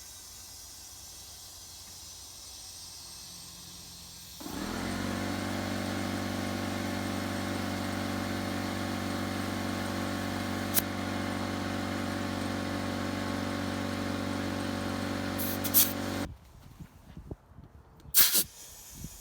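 Lawnmower engine catches about four seconds in and runs steadily at a constant speed, then cuts off abruptly, followed by a few knocks and a sharp clatter.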